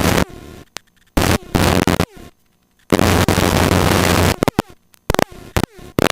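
Helicopter cabin noise, the rotor and engine hum with a loud rushing hiss, heard through the intercom feed in abrupt bursts. It cuts in and out three times, and short clicks and brief bursts follow near the end.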